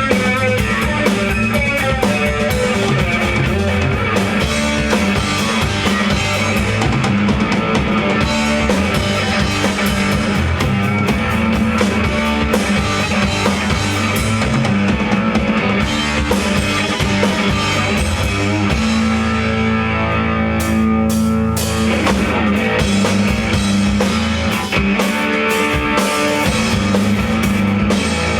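Rock band playing live, with drum kit and guitar, loud and dense. The drumming thins out for a couple of seconds about two-thirds of the way in, then the cymbals come back in.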